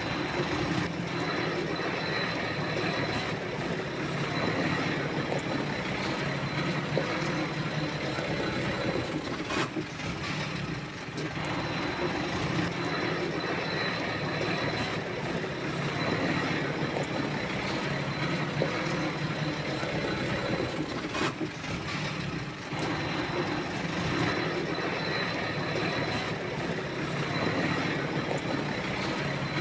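Diesel engine of heavy earthmoving machinery running steadily, with a constant low hum, a thin high whine and small swells and dips in level.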